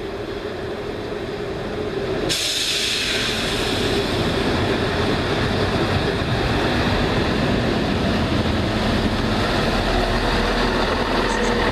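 Class 170 Turbostar diesel multiple unit running into the platform, its engines and wheels growing louder as it approaches. About two seconds in, a steady rushing hiss starts suddenly and carries on as the train runs alongside.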